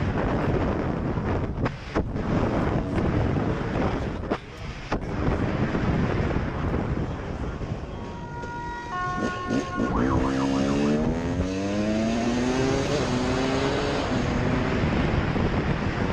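Motorcycle engine accelerating hard through the gears: the pitch climbs, drops at a shift and climbs again three times, over loud wind noise on the microphone. Before it, a few short steady tones sound at different pitches.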